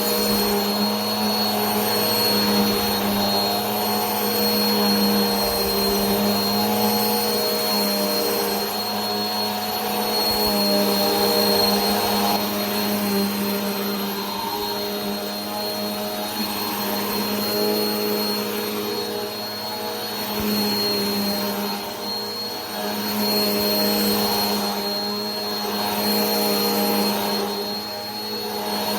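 Vacuum cleaner running steadily: a motor hum with a thin high whine over a rushing hiss of air, the loudness swelling and easing slightly every few seconds.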